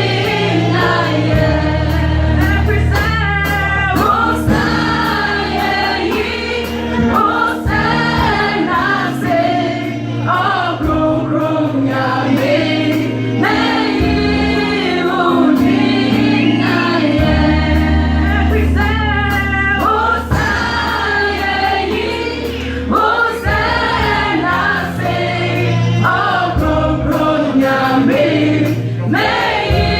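Gospel choir singing a Twi-language song in full voice over an instrumental accompaniment that holds sustained low bass notes and keeps a regular beat.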